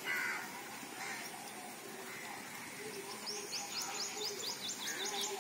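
A bird calling: about three seconds in, a quick run of about a dozen high, descending notes lasting about two seconds. A brief louder sound comes at the very start.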